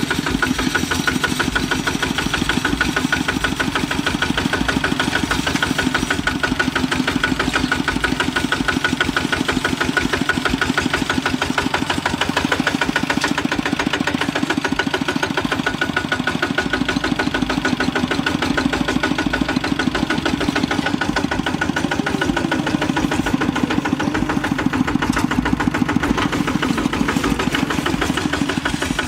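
Single-cylinder diesel engine of a Kubota RT hand tractor running steadily, with a fast, even chugging beat.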